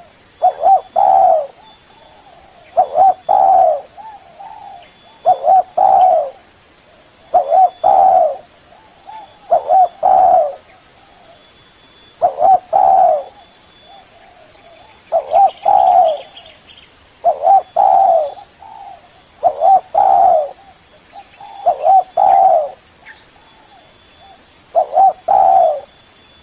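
Spotted dove (Spilopelia chinensis) cooing: the same phrase repeats about every two seconds, each a soft lead note followed by two loud coos.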